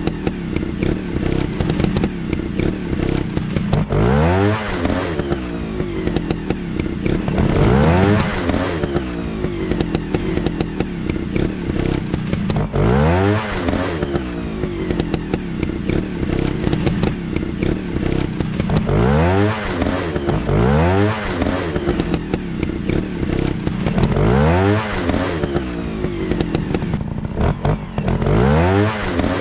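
Motocross dirt bike engines running hard, the pitch rising sharply then dropping back every few seconds as the bikes accelerate, over a steady engine drone.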